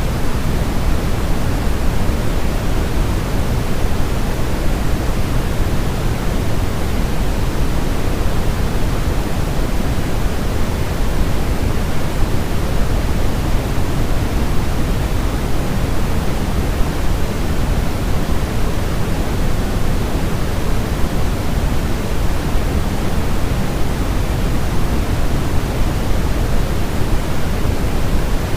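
Steady, unchanging noise of the white-noise kind used to settle babies to sleep, fullest in the low end and thinning toward a soft hiss in the highs, with no breaks or events.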